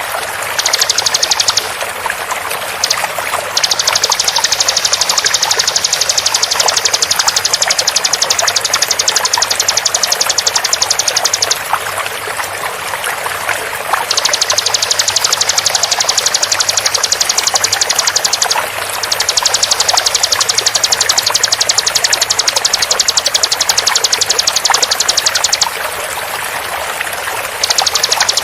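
Bar-winged prinia (ciblek) giving its rapid 'tembakan' song: long runs of very fast, high repeated notes in several bursts lasting from about a second to eight seconds, with short pauses between them. It sits over a steady sound of flowing water.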